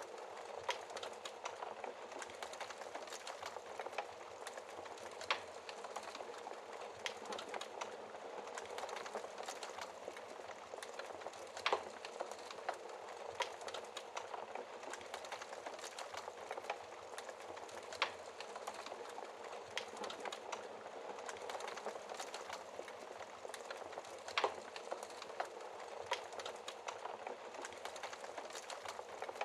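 Wood fire burning in a fireplace, crackling: a steady hiss of flames with many small crackles and a few louder pops.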